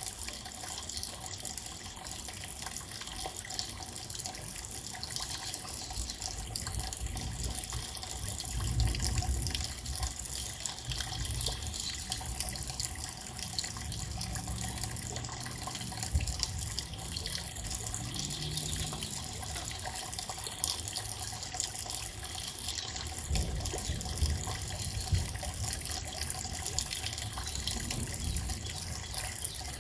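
Steady rain: an even hiss with scattered drips, and a low rumble that swells and fades a few times.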